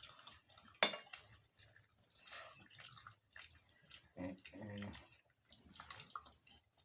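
Eating sounds: wet chewing and lip smacks, with one sharp click about a second in. A short murmured voice comes in around four seconds in.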